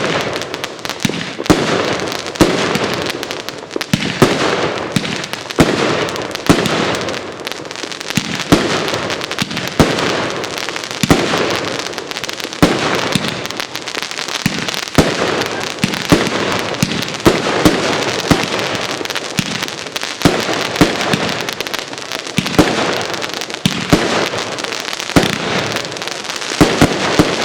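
A 'Freezing Steel' consumer firework cake firing shot after shot, about once a second. Each launch thump is followed by dense crackling from its crackling tails, with no pause in the sequence.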